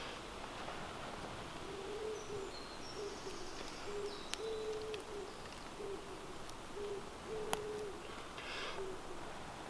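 A bird's low hooting calls: a phrase of one long hoot followed by shorter ones, repeating about every three seconds. A few sharp clicks and faint high chirps from a smaller bird sound alongside.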